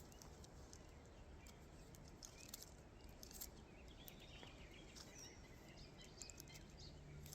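Near silence: faint outdoor background with scattered faint ticks from antenna wire being wound onto a hand winder, and a few faint bird chirps around the middle.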